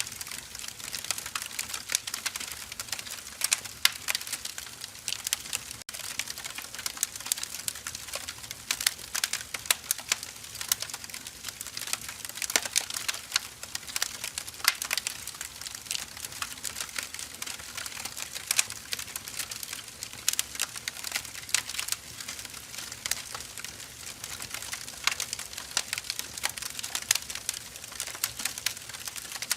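Firewood burning: a continuous dense crackle of small sharp pops, with louder irregular snaps scattered throughout.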